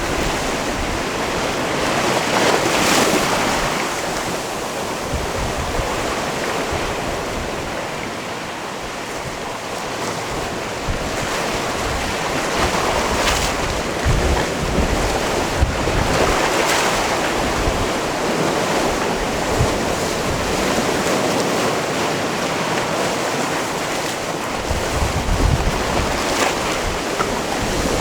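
Mediterranean sea waves washing onto a rocky shore: a continuous surf wash that swells and falls back every few seconds, with wind rumbling on the microphone now and then, most near the end.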